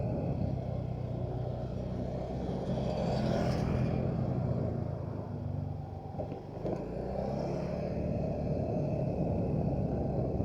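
Motorcycle engine running steadily while riding, with a brief swelling hiss twice as other traffic goes by.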